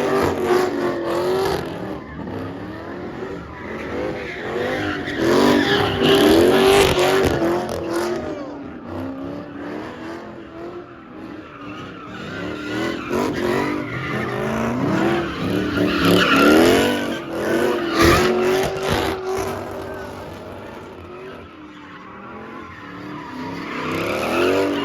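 Cars skidding with engines revving up and down and tires squealing, as in burnouts or donuts. Loudest about six seconds in and again around sixteen to eighteen seconds in.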